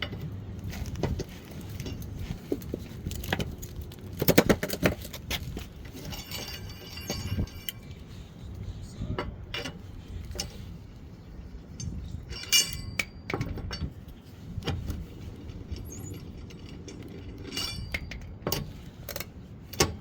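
Lug nuts and hand tools being handled as a car wheel comes off: scattered metal clinks and knocks, a few of them ringing briefly.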